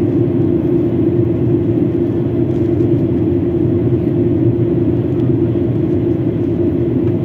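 Airliner cabin noise on final approach: a steady rumble of the engines and rushing air, with a constant low hum through it.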